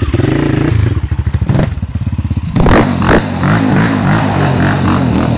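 Yamaha Raptor quad bike's engine running, then opening up loudly about halfway through. Its revs then rise and fall over and over.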